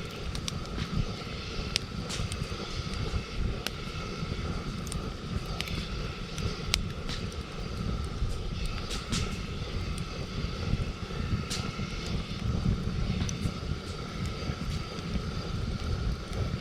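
Wood campfire crackling, with sharp pops scattered irregularly over a steady low rumble and a faint steady high tone.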